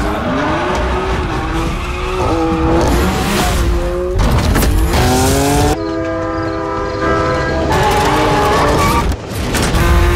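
A BMW M car's engine revving hard, its pitch climbing again and again as it pulls through the gears. About six seconds in, a steady held tone lasts for about two seconds.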